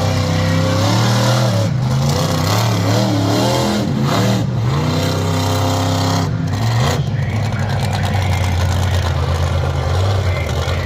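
Large truck engine running loud and revving, its pitch swinging up and down several times before settling into a steadier drone.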